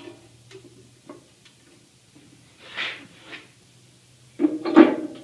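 Handling noises in a workshop: a short rustle about three seconds in, then a louder clunk and rattle near the end, over a faint low steady hum.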